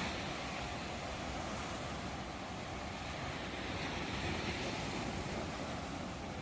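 Ocean waves: a steady rushing surf noise that swells slightly about four seconds in.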